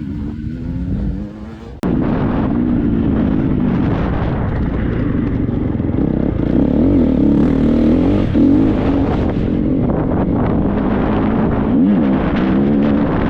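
Triumph 250 motocross bike's single-cylinder four-stroke engine being ridden hard, its revs rising and falling with the throttle. About two seconds in the sound dips away and then cuts back in abruptly.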